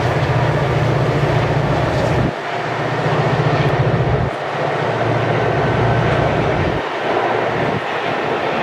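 A passing train: loud, steady rumble and rolling noise, with a pulsing low drone that cuts off and changes abruptly three times.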